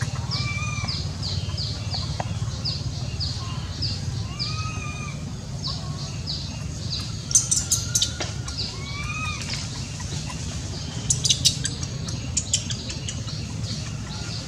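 Birds calling: a steady series of short, high repeated chirps, two to three a second, with a few lower arched whistles. Two short bursts of sharp clicking stand out, near the middle and about three-quarters through, over a steady low background rumble.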